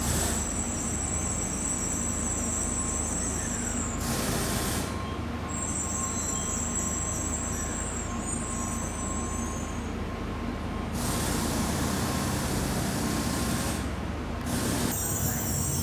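Tokaido Shinkansen train running at the station, a steady low rumble with high squealing tones that come and go, broken twice by spells of loud hiss.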